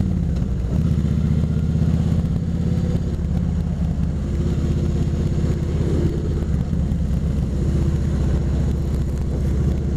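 Kawasaki Vulcan 2000's big V-twin engine running steadily as the motorcycle cruises, heard from the rider's seat.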